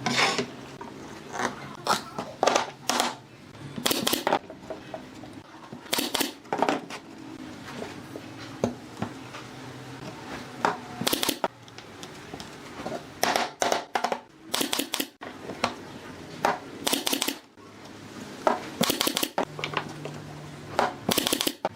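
Irregular clicks, knocks and scraping of hand work on materials in a furniture workshop, over a faint low hum.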